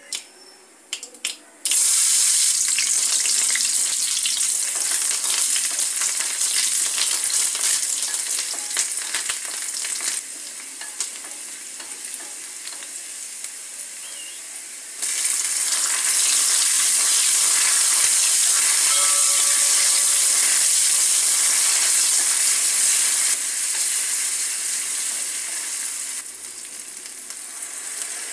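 Mustard seeds crackling in hot oil in an aluminium kadai, then a loud steady sizzle as chopped onion, green chillies and curry leaves fry. The sizzle drops back, then surges again about halfway through when chopped tomato goes into the hot pan, and eases off near the end.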